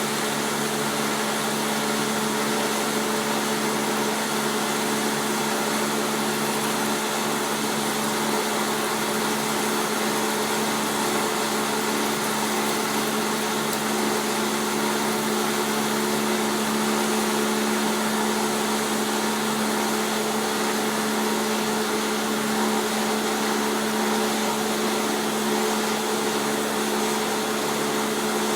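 Taiga OS electric log-rounding machine running steadily: a constant motor hum over an even whir.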